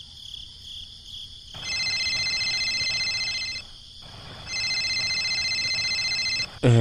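Mobile phone ringing: two electronic trilling rings of about two seconds each, about a second apart.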